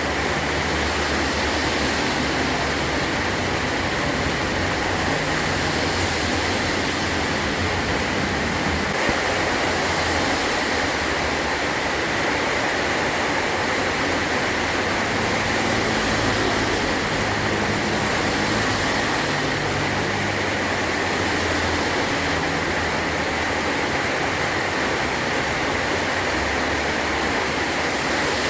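Heavy rain falling steadily on a metal roof, a dense even hiss.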